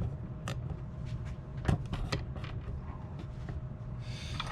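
Light clicks and knocks of small objects being handled on a workbench, the sharpest about two seconds in, with a short scratchy rustle near the end, over a steady low hum.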